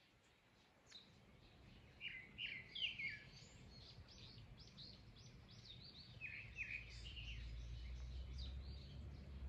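Small songbirds chirping in quick clusters of short, high notes. A low rumble builds up underneath in the second half.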